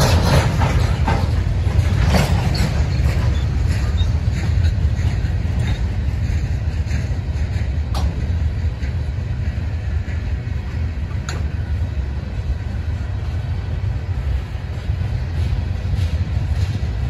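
CSX freight cars rolling past at speed: a steady low rumble of steel wheels on rail. Wheels knock and click over the rail joints, in a quick cluster at first, then with single sharp clicks about eight and eleven seconds in.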